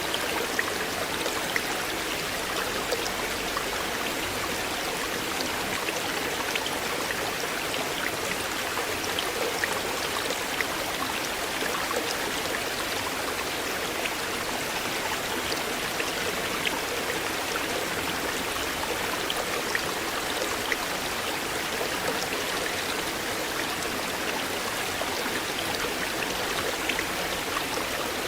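River water flowing steadily at the water's edge, an even babble with many small splashes and drips scattered through it.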